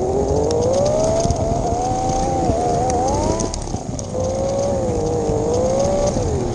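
Carrera 1/32 scale slot car's small electric motor whining as it laps the plastic track, its pitch rising and falling with speed through the straights and corners, over a steady rumble with small ticks. The whine drops out briefly about three and a half seconds in, then picks up again.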